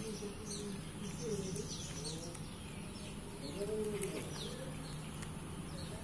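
Doves cooing in low, arched calls a few times, with small birds giving short falling chirps over a steady low hum.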